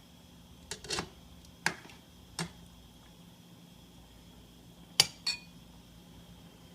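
Kitchenware being handled at the stove: a utensil knocking and clinking against a pot and dishes, about six sharp knocks in two groups, the loudest pair about five seconds in, over a faint steady hum.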